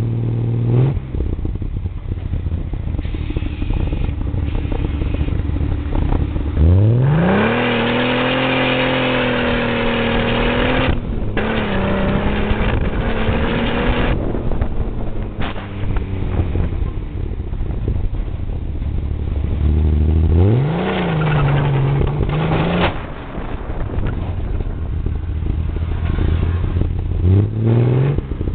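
Ford rat rod's engine and exhaust rumbling as the car is driven, with repeated hard accelerations. The pitch climbs steeply about 7 seconds in and stays loud for several seconds, climbs again about 21 seconds in, and starts rising once more near the end.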